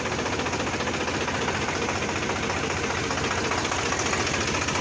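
Tractor diesel engine running steadily at low revs with an even, fast knock of its firing, pulling the tractor and trolley slowly in reverse in low range.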